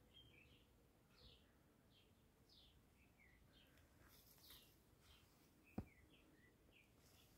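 Faint birdsong: a small bird's short, quick chirps repeating, with a single sharp click about six seconds in.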